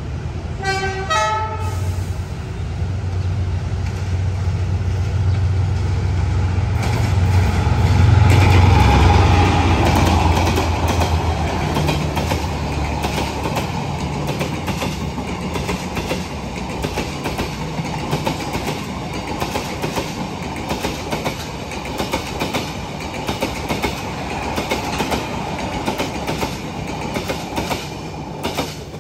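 A D19E diesel-electric locomotive passes with a passenger train, its engine rumbling louder as it draws level. The coaches follow with a steady clickety-clack of wheels over rail joints.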